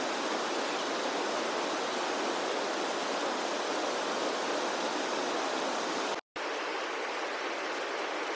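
Steady rushing of a flowing river, an even noise with no breaks except a split-second dropout about six seconds in.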